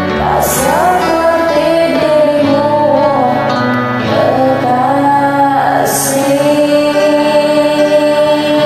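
Karaoke backing track of sustained keyboard chords with a woman singing two drawn-out, gliding phrases over it.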